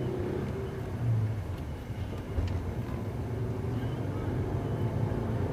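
Manual Subaru's boxer engine running steadily under way, heard inside the cabin with tyre and road noise.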